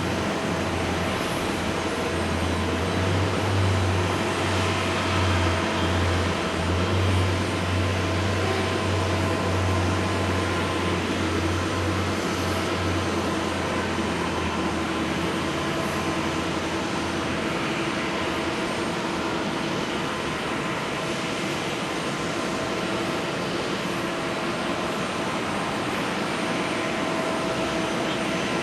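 Jet engine noise from an Airbus A321neo's Pratt & Whitney PW1100G geared turbofans: a steady roar with several whining tones and a low rumble that fades after about twelve seconds.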